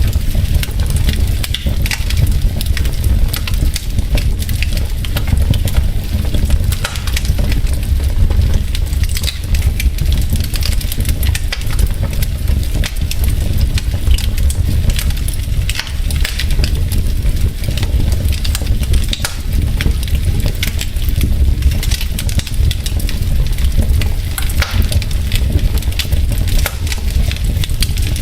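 Wood fire burning in a fireplace: logs crackling with dense, irregular pops and snaps over a steady low rumble.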